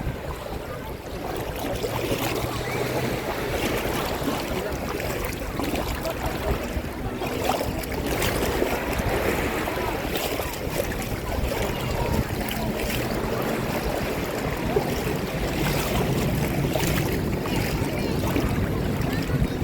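Seawater sloshing and small waves lapping close to the microphone, with a faint low steady hum underneath.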